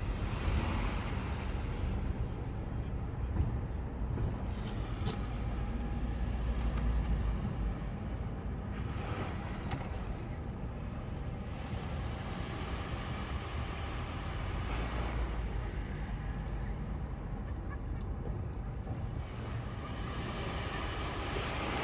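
Sea waves washing in, several broad swells of hiss spaced some seconds apart, over a steady low rumble of wind on the microphone.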